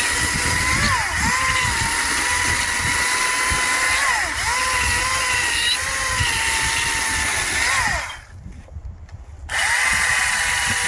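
Echo DCS-2500T 56-volt battery chainsaw running with a steady high whine, its pitch dipping briefly several times as the chain bites in under load. It stops about eight seconds in and starts again about a second and a half later.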